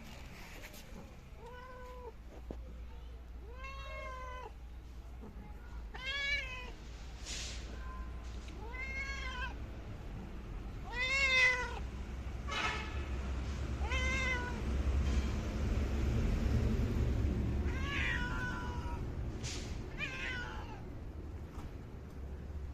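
Domestic cat meowing repeatedly, about eight separate meows a couple of seconds apart, each rising and then falling in pitch, over a low background rumble.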